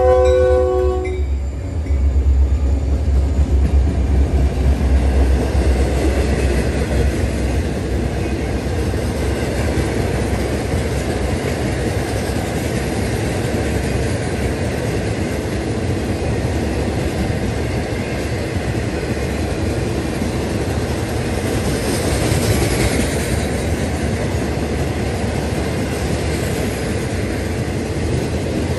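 Freight train horn chord cutting off about a second in, then diesel locomotives rumbling past and a long string of loaded hopper cars rolling by, steel wheels clattering over the rail joints.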